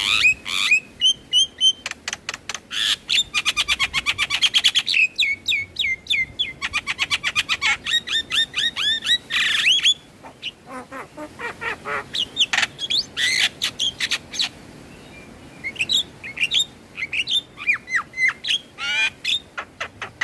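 Javan myna (jalak kebo) singing: rapid runs of repeated clicks and short chattering, squawky notes, thinning out to more scattered calls about halfway through.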